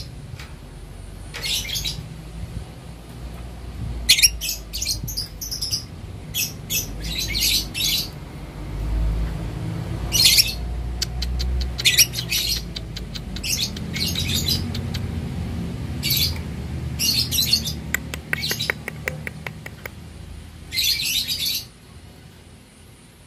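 Young lovebird calling in a string of short, shrill chattering bursts, about a dozen of them, with a fast clicking rattle a little before the end and one longer burst near the end. A low rumble sits underneath.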